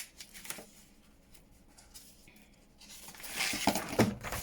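Paper being handled on a work surface: a quiet stretch, then rustling and scraping of paper over the last second and a half, with a couple of sharp clicks.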